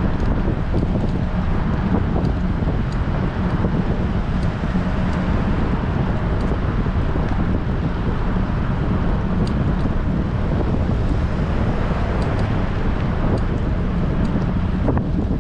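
Strong wind buffeting a bicycle-mounted action camera's microphone while riding, a steady, loud rumble that fills the low end.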